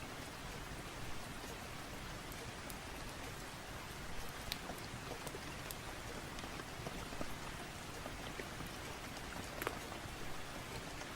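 Steady rain, an even hiss, with scattered sharp ticks and pops at irregular moments.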